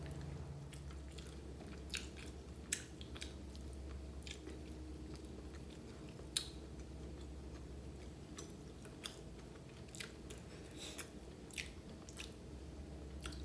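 A person chewing a mouthful of chicken biryani, with soft, scattered mouth clicks and smacks over a faint low hum.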